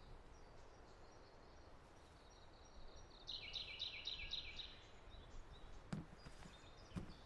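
Quiet room tone with faint high bird chirping for about two seconds, starting about three seconds in, and a couple of soft taps near the end.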